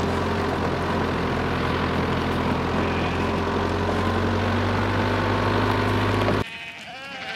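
A motor runs steadily with a low hum and cuts off abruptly near the end. Sheep bleat right after it stops.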